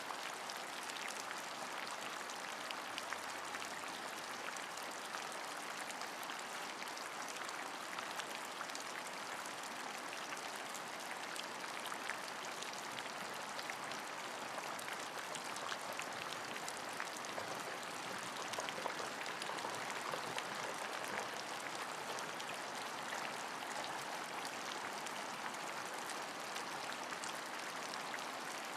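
Steady rain falling, a constant hiss sprinkled with many small drop ticks.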